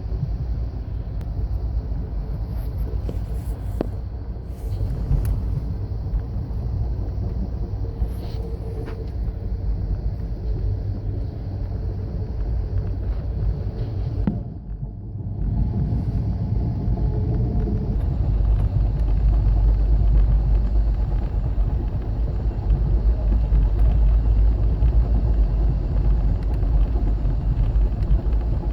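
Amtrak Coast Starlight passenger train in motion, a steady low rumble of its running with a few faint clicks. There is a brief break about halfway through, and the rumble is a little louder after it.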